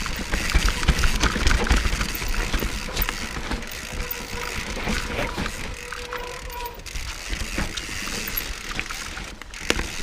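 Mountain bike riding down a steep dirt trail: knobby tyres rolling and scrabbling over dirt and roots, with steady rattling and many sharp clicks from the bike.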